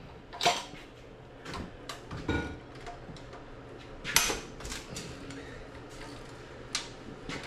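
Metal tools and engine parts clinking and clanking as they are handled and set down, about half a dozen separate sharp knocks spread over several seconds. The loudest knock comes about four seconds in.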